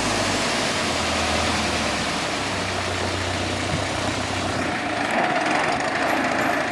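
David Brown tractor engine running steadily.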